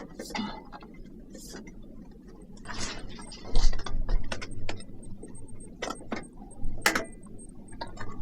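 Irregular mechanical clicking and knocking, many small clicks with a louder knock about three and a half seconds in and another near seven seconds.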